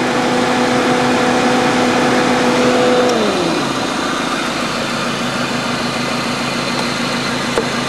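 Dodge Neon four-cylinder engine running steadily, heard from the engine bay. A steady whine over it drops in pitch and fades out about three seconds in.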